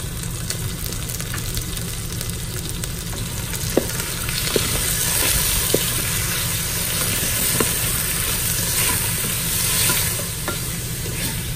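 Diced chicken sizzling in hot oil in a Ninja Foodi's pot on the sear/sauté setting as it is stirred with a wooden spoon. The sizzle gets louder about four seconds in, with a few light clicks in the middle.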